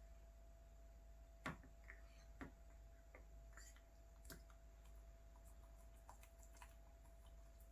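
Near silence with a faint steady hum and a few scattered light clicks and taps, the sharpest about one and a half seconds in.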